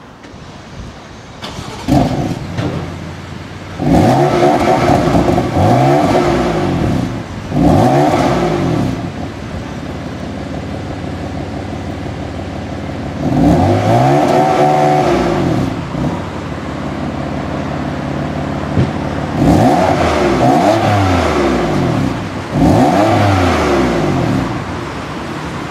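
BMW M3 F80's twin-turbo 3.0-litre inline-six starting up about two seconds in, then settling to idle. It is blipped several times, each rev rising sharply and falling back to a steady idle.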